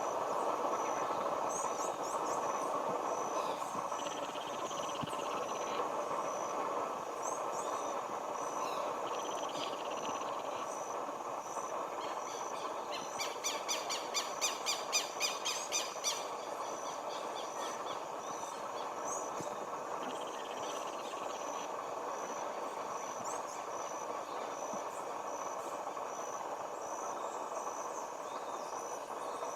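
Outdoor roadside ambience: a steady hiss, a regular high-pitched insect-like pulse, and a few faint bird chirps. About halfway through comes a rapid series of sharp taps lasting about three seconds.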